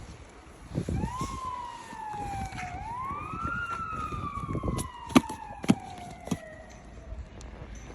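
An emergency-vehicle siren wailing: its pitch rises, dips, rises again and then falls slowly until it fades about seven seconds in. Low thumps run under it, and four sharp clicks come in the second half.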